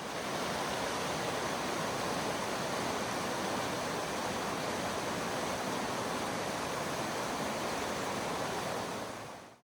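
Steady rush of a river's flowing water, even and unbroken, fading in at the start and fading out just before the end.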